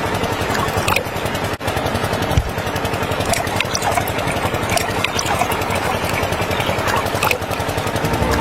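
Small motor running steadily with a fast, busy rattle, and a few sharp clicks scattered through it.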